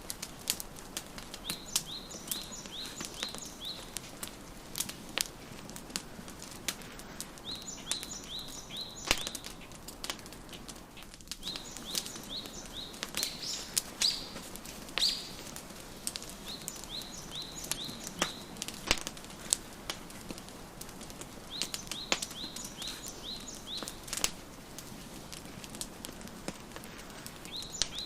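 Wood fire crackling, with frequent sharp pops and snaps. Over it a songbird sings short runs of quick, high, repeated chirps every few seconds.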